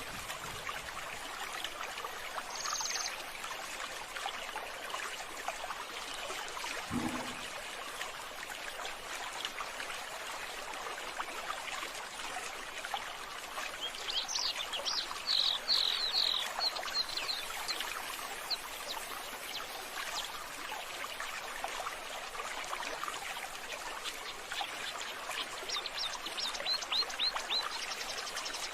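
Steady trickling of running water, with runs of bird chirps about halfway through and again near the end, and a brief low thump about seven seconds in.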